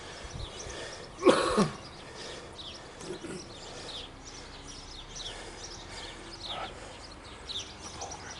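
Birds chirping, with short, high, falling calls repeating every half second or so. About a second in comes a brief, loud human vocal sound, like a cough or throat clearing.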